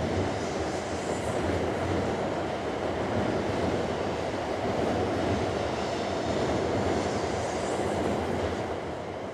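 A train running along elevated track: a steady rumble that eases slightly near the end.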